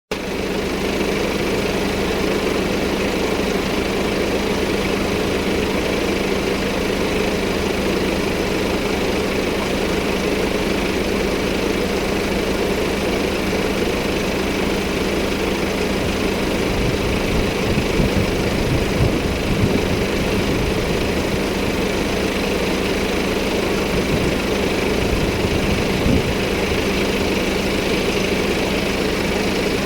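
Diesel car engine idling steadily, with a low hum.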